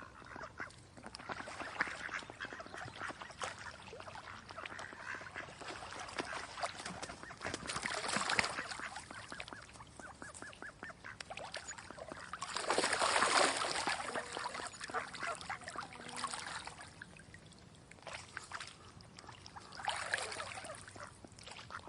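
Ducks quacking and calling, with louder bouts about eight, thirteen and twenty seconds in; the bout around thirteen seconds is the loudest.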